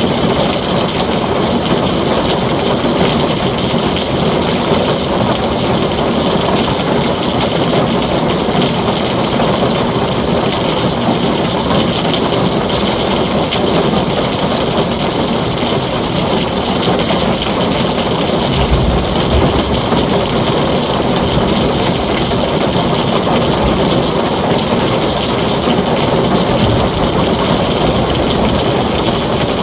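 Heavy rain drumming steadily on a tin roof, with a brief low rumble about two-thirds of the way in.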